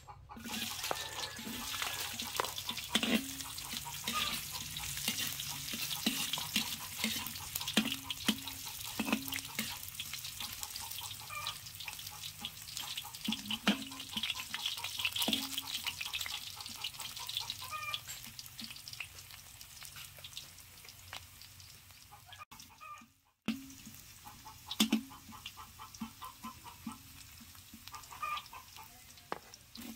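Food sizzling and crackling in hot oil in a wide metal caldron, with a metal ladle clicking and scraping against the pan as it is stirred. Chickens cluck now and then, and the sizzle eases off in the second half.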